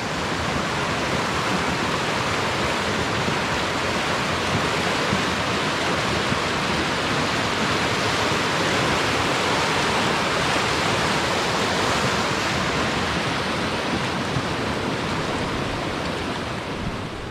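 Mountain river rushing beneath a footbridge: a steady roar of fast water, swelling slightly toward the middle and easing near the end.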